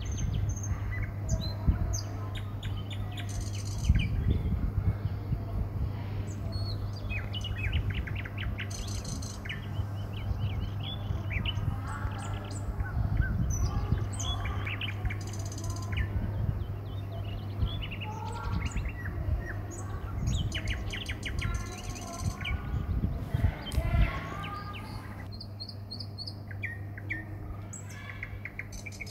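Several birds chirping and calling on and off, with a steady low hum underneath and occasional low rumbling thuds.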